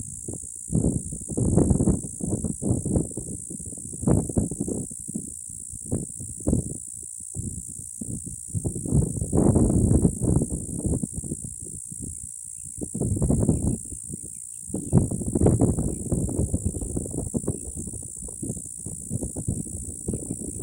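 Steady high-pitched insect buzz from a background chorus running throughout. Over it come irregular loud low rumbling bursts, which may be wind or handling noise on the microphone.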